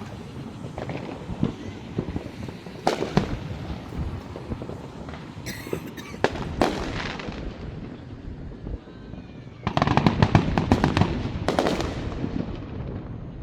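Aerial fireworks going off: scattered bangs with ringing, then a dense run of rapid crackling bangs lasting about two seconds near the end.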